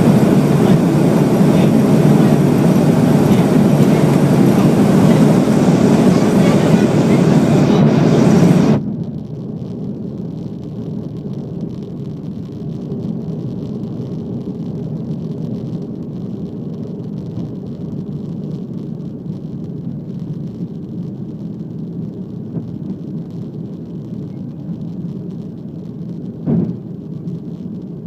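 Airliner taking off: a loud, steady engine roar that drops abruptly about nine seconds in to a much quieter low hum, with a brief knock near the end.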